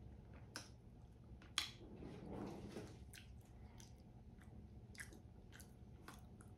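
Close-miked mouth sounds of chewing food: a scatter of soft, wet clicks and smacks, the sharpest about one and a half seconds in, followed by a short breathy swell.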